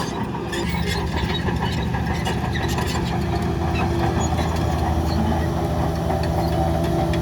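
Heavy diesel engine of earth-moving machinery running steadily, with scattered short clicks and knocks over the engine sound.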